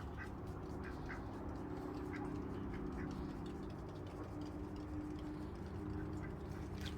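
Scattered short bird and poultry calls over a steady low hum.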